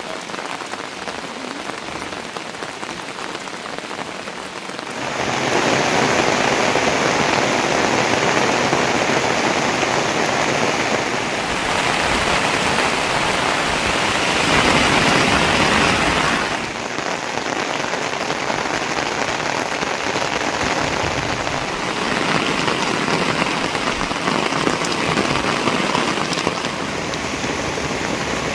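Heavy rain falling, an even hiss of rain on surfaces. It turns markedly louder about five seconds in and eases somewhat again a little past the middle.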